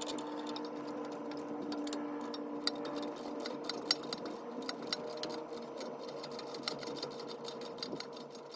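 Ratchet wrench clicking in quick, irregular runs as the nut on a new sway bar end link is tightened, over a steady hum.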